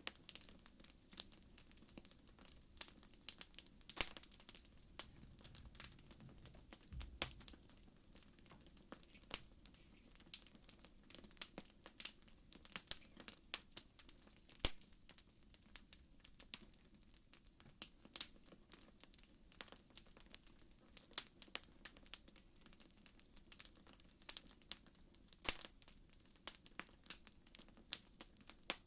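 Campfire crackling: faint, with frequent irregular sharp pops and snaps over a soft low hiss.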